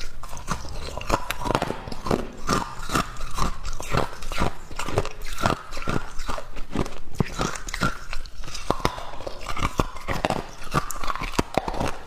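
Hard ice being bitten and chewed: rapid, continuous crunching and cracking with no pause.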